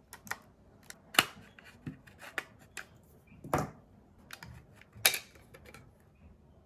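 Irregular sharp clicks and knocks of tools and plastic parts being handled while a wireless charger is taken apart. The loudest come about a second in, at three and a half seconds and about five seconds in.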